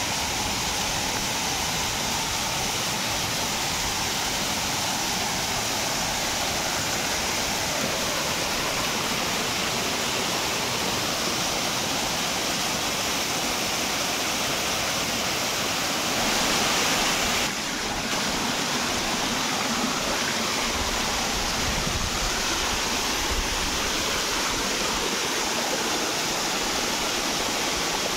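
Waterfall rushing steadily, an even, unbroken sound of falling water that swells briefly a little past halfway.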